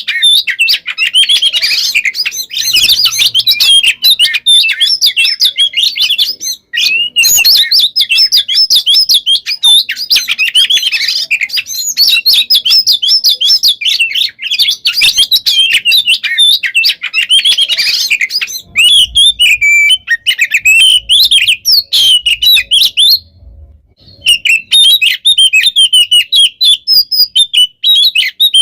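Oriental magpie-robin (kacer) singing loudly in a fast, almost unbroken stream of rapid notes and trills, pausing for about a second near the end.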